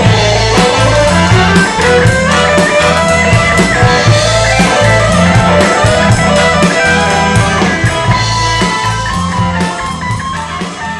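Live rock band playing: guitar over a bass line and drum kit, the volume falling away near the end.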